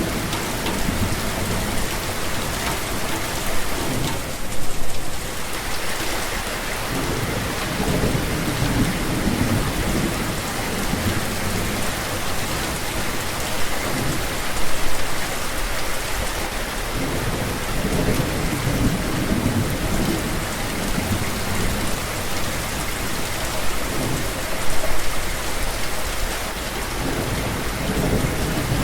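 Steady rain falling, a dense even hiss, with low rumbling swells every few seconds and three brief louder peaks about ten seconds apart.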